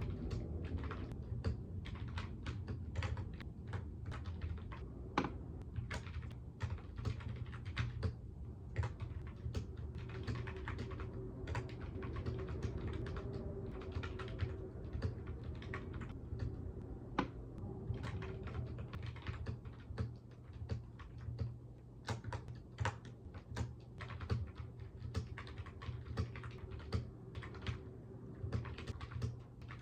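Continuous typing on a computer keyboard: quick, irregular key clicks with occasional louder strokes, over a steady low hum.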